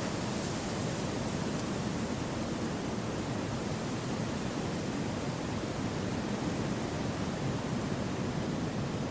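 Wind blowing in an even, steady rush with no gusts, breaks or distinct events.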